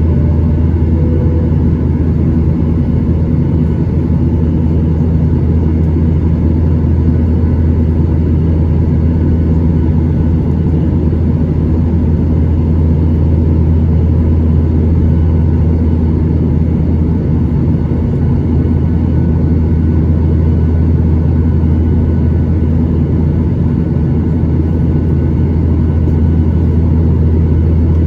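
Steady, loud, low cabin drone of a Boeing 737-800, its CFM56-7B jet engines and airflow heard from inside the passenger cabin.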